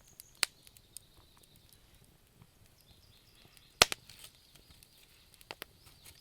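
Wood fire burning in a fireplace: a soft steady hiss with sharp crackling pops now and then, the loudest a little under four seconds in and a quick pair near the end.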